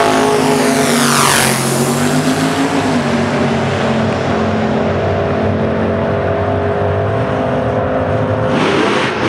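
Car engine running at a steady speed. A high whine falls sharply in pitch in the first second and a half, and a burst of hiss comes near the end.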